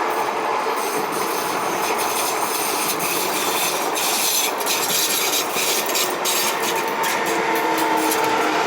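Passenger train of Married Pair coaches hauled by a DB class 245 diesel locomotive, rolling steadily through the station. Its wheels click over rail joints, most plainly from about three to six seconds in, over a thin squealing tone that grows near the end.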